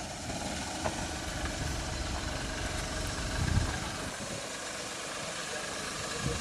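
Car engine running with an uneven low rumble, briefly louder about three and a half seconds in.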